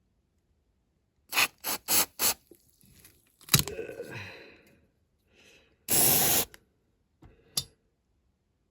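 Tools and parts handled on a workbench: four quick knocks, a louder knock with a rattle that dies away, a short hiss about six seconds in, and two more clicks near the end.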